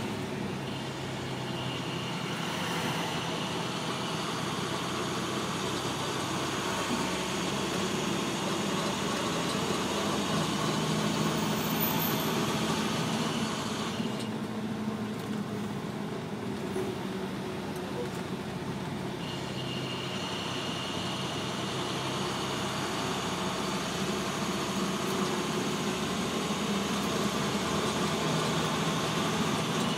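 Car on the move: steady engine and road noise with a low hum, easing in the upper range for a few seconds midway.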